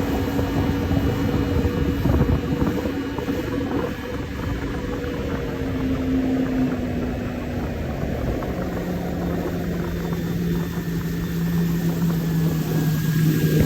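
Yamaha jet ski engine running steadily, its hum dropping to a lower pitch about eight seconds in as it throttles back.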